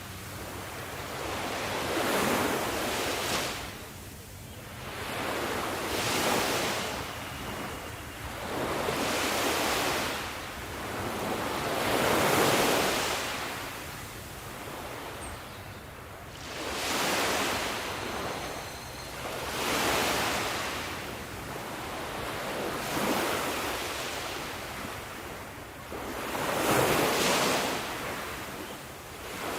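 Ocean waves washing in, each wave a rush of surf that swells and fades every three seconds or so.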